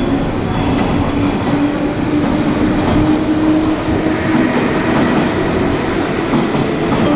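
Electric commuter train moving alongside the platform: a loud, steady rumble of wheels on rails, with a motor hum that rises slightly in pitch over the first few seconds and then sinks into the rumble.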